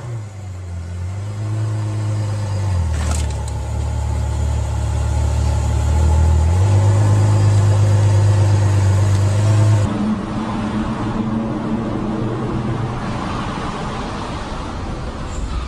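A car engine runs steadily, its note holding on a few fixed pitches and stepping abruptly between them, with a brief sharp knock about three seconds in. About ten seconds in the sound switches abruptly to a different, higher engine note.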